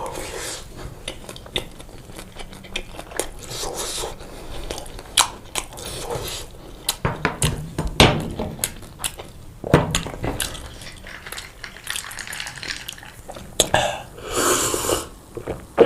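Close-miked eating sounds of pizza: chewing and wet mouth clicks, with many sharp clicks and knocks. A longer, louder bite or chew comes near the end.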